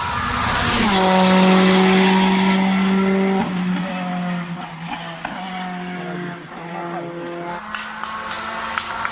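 Rally car engine at high revs passing close by, its pitch dropping sharply just before a second in and shifting again as it drives on, with tyre squeal. Near the end comes a quick run of sharp pops.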